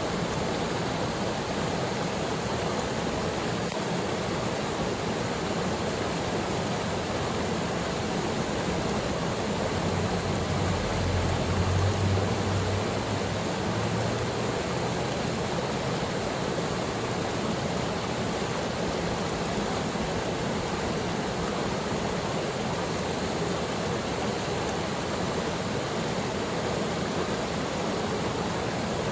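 Waterfall pouring steadily into its pool, a constant rush of water. A low rumble swells and fades briefly around the middle.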